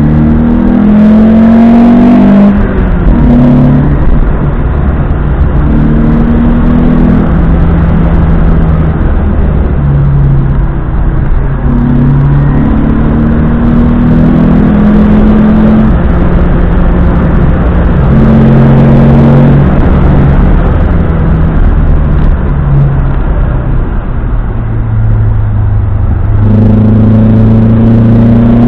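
Opel Manta B engine running hard, its pitch stepping up and down with revs and gear changes.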